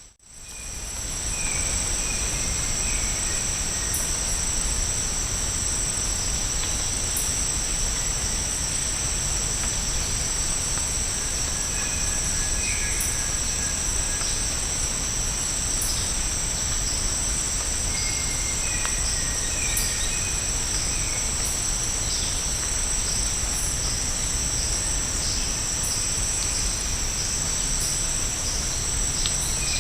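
Steady, high-pitched chorus of rainforest insects holding two unbroken shrill tones, with a few faint short bird calls now and then.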